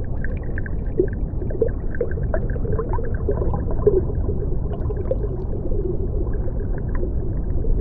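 Underwater ambience: a steady low rumble with many short, quick blips and gurgles.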